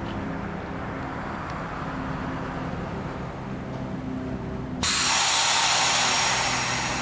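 NJ Transit commuter train standing at a station platform with a steady low hum, then, about five seconds in, a sudden loud hiss of compressed air venting from the train that fades over the next two seconds.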